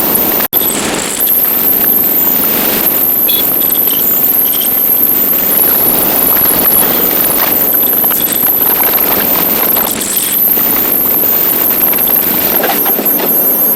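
Steady, loud rush of wind and road noise on a motorcycle under way, dropping out for an instant about half a second in.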